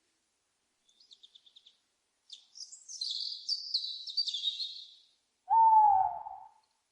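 Small songbirds chirping: a quick run of high notes, then a busy high twittering for a few seconds. Near the end comes the loudest sound, a single owl hoot about a second long that slides slightly down in pitch.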